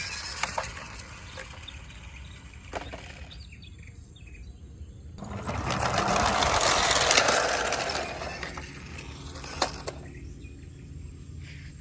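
Outdoor background noise with occasional bird chirps and a few sharp clicks. About five seconds in, a rush of noise swells, peaks and fades over roughly three seconds.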